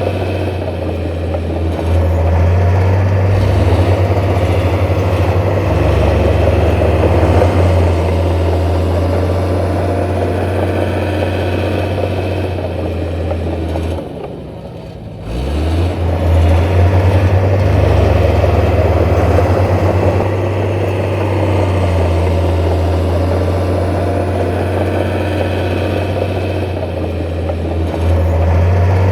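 Heavy diesel engine of earthmoving machinery running steadily under load. About halfway through it drops off briefly, then revs back up.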